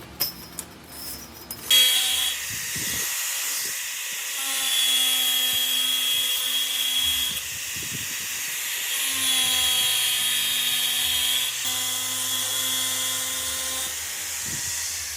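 A few sharp knocks, then from about two seconds in an electric power tool runs continuously with a high whine whose pitch sags and recovers.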